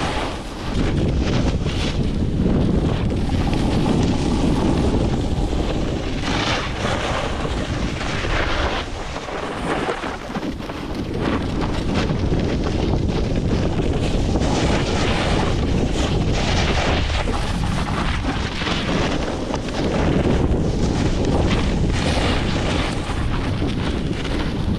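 Strong blizzard wind buffeting the microphone: a loud, continuous rush that swells and eases in gusts.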